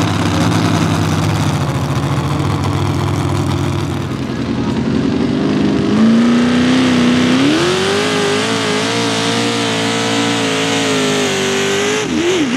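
Mini Rod pulling tractor's engine running hard during a pull. Its pitch is steady at first, climbs in two steps about halfway through, holds high, then falls off unevenly near the end as the throttle comes back.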